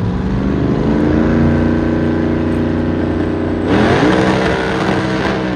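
Vehicle engine revving: the pitch climbs over the first second and is held high. About two-thirds of the way in it revs up again with a louder rush of noise and holds until near the end.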